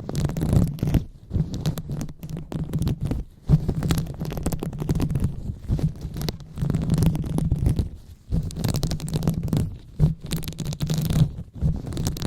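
Hands rubbing and massaging a microphone up close for ASMR, giving an uneven stream of muffled low rubbing with scratchy crackles that swell and fade.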